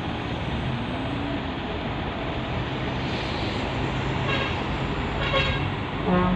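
Truck engines running steadily in traffic, with a few short horn toots in the second half, the loudest just before the end.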